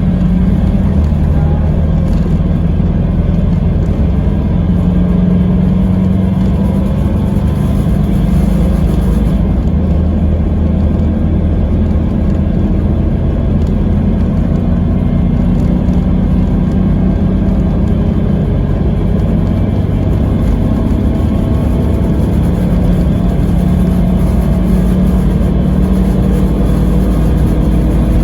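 Scania K320IB coach's five-cylinder diesel engine running steadily under way, over a background of road noise.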